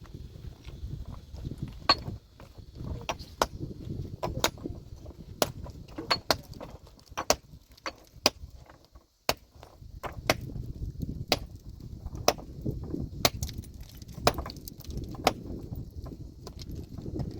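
Metal hand tool striking rock over and over, a sharp clink about once a second with a low rumble between strikes: stone being broken by hand.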